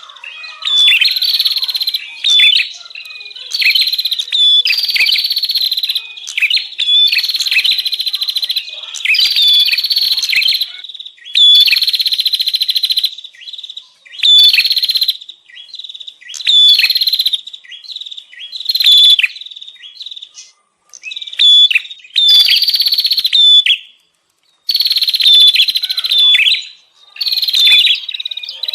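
Prenjak birds calling noisily in repeated harsh, high chattering phrases of a second or so each, one after another with short gaps and a brief pause near the end. This is the agitated chatter used as a lure call for wild prenjak.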